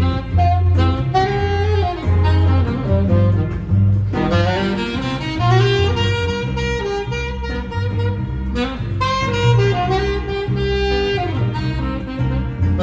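Live jazz quartet playing an instrumental passage: a saxophone carries the melody over a bass line.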